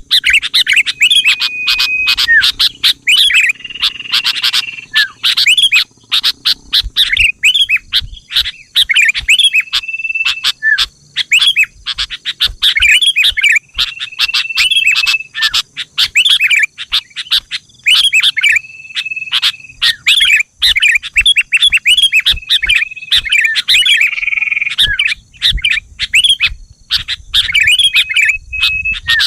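Sooty-headed bulbul song, a loud, busy run of quick chirping notes broken every few seconds by a short, steady whistled note. It is played as a lure call to set other bulbuls singing.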